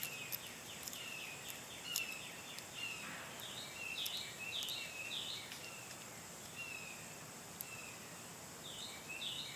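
Birds calling: short chirps repeated about twice a second, easing off for a moment near the end, over a faint steady high hum and a few light clicks.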